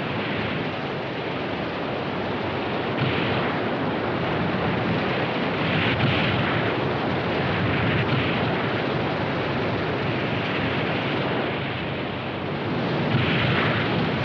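Rushing river rapids: a steady, loud rush of water, swelling louder about three seconds in, around six seconds, and again near the end.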